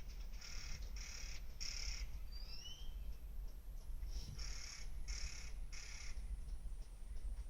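A crow cawing in two series of three harsh caws, with a short rising chirp from another bird between them, over a steady low rumble.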